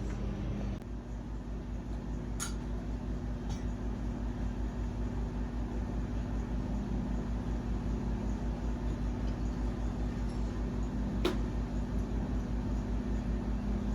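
A machine running with a steady hum and a fast, even low pulsing, with a few light clicks: one about two seconds in, one at three and a half seconds, and one near the end.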